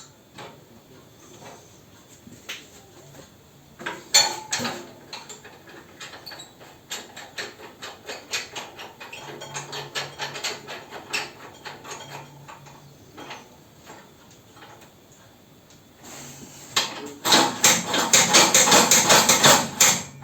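Metal clicking and rattling from a pellet stove's heat-exchanger cleaning mechanism and its spiral turbulators being handled: scattered light clicks, then a loud, rapid rattle for the last few seconds.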